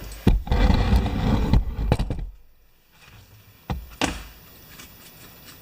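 Bench handling noise while working on a small-engine carburetor: about two seconds of scraping and clattering with a low rumble, then two sharp clicks.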